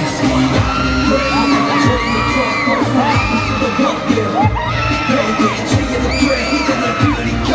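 K-pop dance track played loud over a concert sound system: a high, gliding synth melody over a steady beat, with a crowd cheering behind it.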